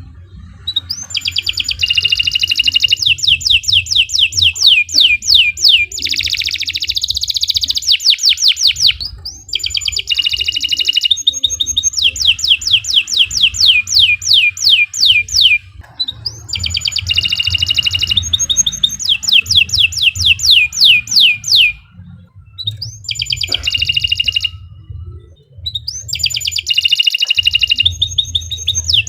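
Domestic canary singing: long bouts of fast trills, each a rapid run of repeated down-sweeping high notes at about five a second, with short pauses between bouts.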